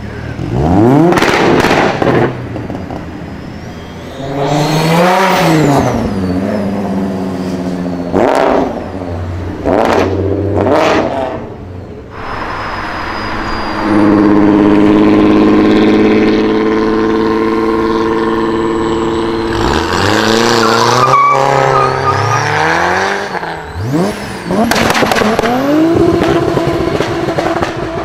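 Older Volkswagen Golf hatchbacks (Mk1 and Mk2) accelerating hard one after another, engine pitch climbing through the gears and dropping between revs, with a long stretch of engines held at steady revs in the middle. Near the end a Golf pulls away with its tyres spinning and smoking.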